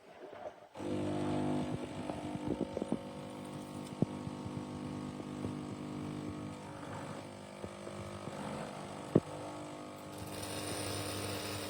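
Philips Baristina espresso machine's pump starting about a second in and running with a steady hum as the coffee begins to flow, with a few clicks. Near the end a hiss joins the hum.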